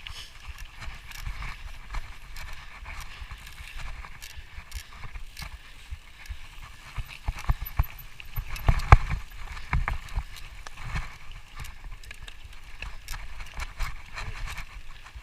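Footsteps and knocks of someone hiking up a trail, with wind rumbling on the microphone; a run of louder knocks about halfway through.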